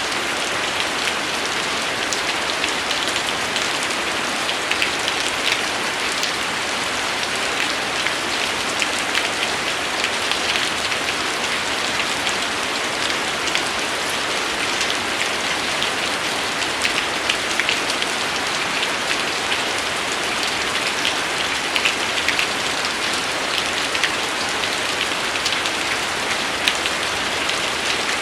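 Steady rain falling, a continuous hiss dotted with many small drop impacts on a surface.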